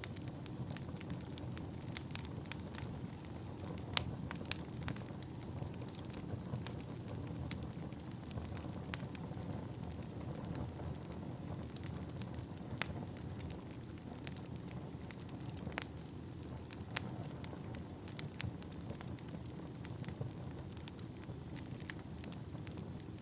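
Wood fire burning in a fireplace: a steady low rumble of flames with irregular sharp crackles and pops from the burning logs, one louder pop about four seconds in.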